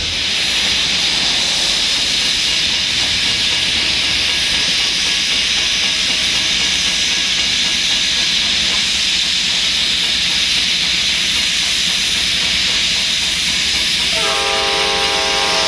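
A steady, loud hiss of air from a stopped Norfolk Southern freight train's locomotives. About fourteen seconds in, an approaching train's horn sounds a chord of several notes at once.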